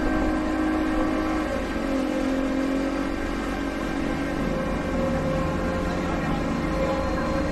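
Boat engine running with a steady drone; its pitch dips slightly about two seconds in and then holds.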